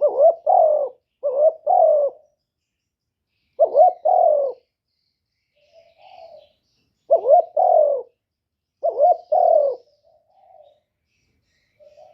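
Spotted dove giving its soft 'gù' coo, the call used to lure wild male doves in for trapping. There are five low, two-part coos, each about a second long, at irregular gaps, with fainter short coos between them.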